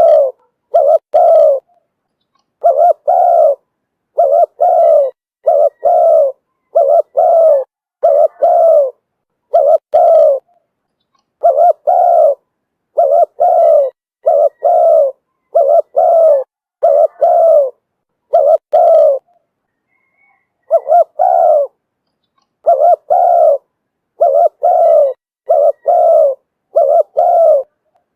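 Spotted dove cooing over and over: short coos, each under a second, in quick runs with brief pauses, and one longer pause about two-thirds of the way through.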